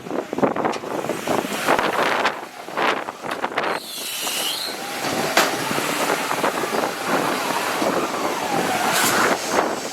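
Off-road 4x4 engine revving unevenly, its pitch rising and falling, with a run of knocks and clatter in the first few seconds.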